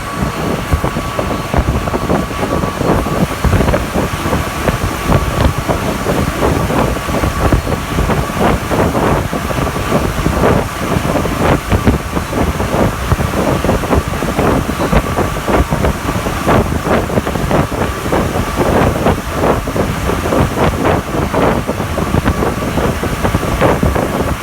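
Rubber-tyred NS-93 metro train running at speed, heard from inside the car: a loud, steady rolling noise with constant rattling and clatter and a steady high whine.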